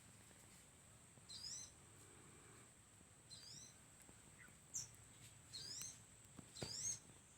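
A tiung merah bird giving short, high chirps, about five of them spaced a second or so apart, over a faint steady high whine; a couple of soft knocks come near the end.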